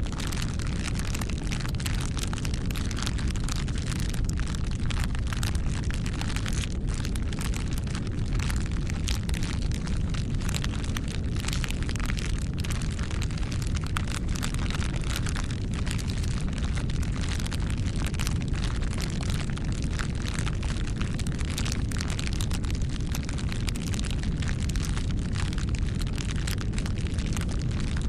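Bonfire burning: continual sharp crackles and pops over a steady low rumble of the flames.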